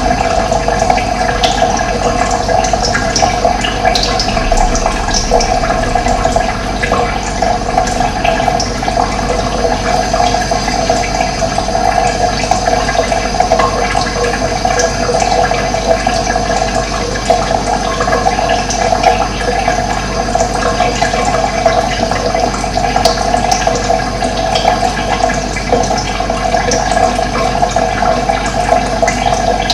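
Running water flowing steadily with a full, even rushing sound, joined now and then by a few short high bird chirps.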